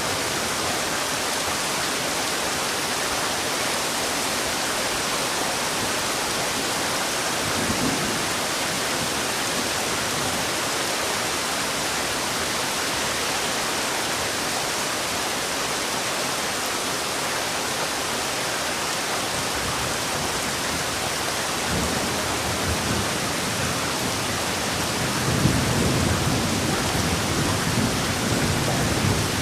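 Heavy rain pouring steadily as an even hiss. Low rumbles of thunder come twice briefly, then a longer, louder roll near the end.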